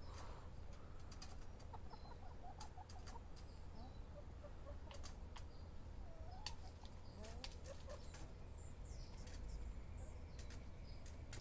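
Chickens clucking quietly in short, wavering low calls, with small birds chirping faintly and scattered sharp clicks.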